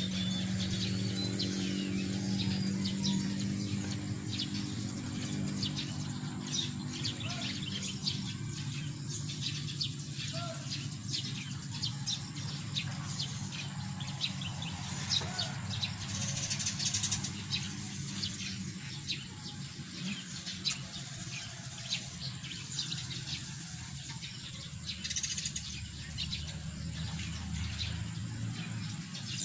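Birds chirping with short, repeated calls over a steady low hum, which is stronger in the first several seconds.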